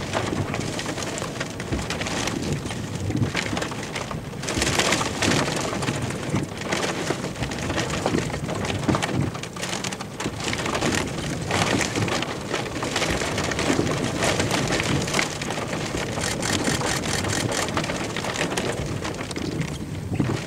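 Heavy rain pelting the windshield and roof of a vehicle, heard from inside the cab as a dense patter of drops. The downpour swells and eases in gusty waves.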